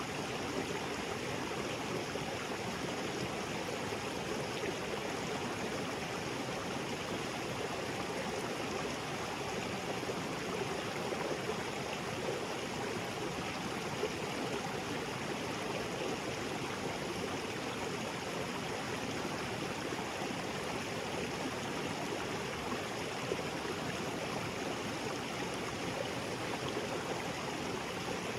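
Small waterfall splashing into a rocky creek: a steady, even rush of falling and flowing water.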